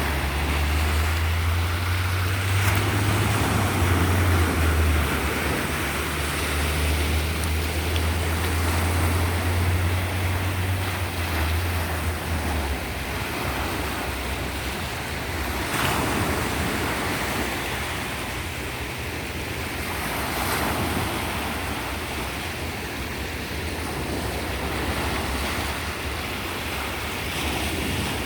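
Sea surf washing in, a steady rush of water that swells and ebbs as waves break, with louder surges about sixteen and twenty seconds in. A low steady hum sits under it for the first twelve seconds or so, then stops.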